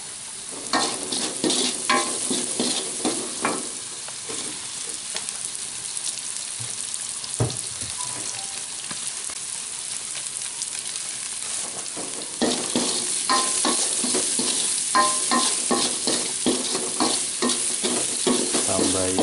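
Oil sizzling in a wok as garlic, shallots and chilies fry, with a steady hiss throughout. A spatula stirs and scrapes against the wok in quick strokes during the first few seconds and again through the second half, with a single knock about seven seconds in.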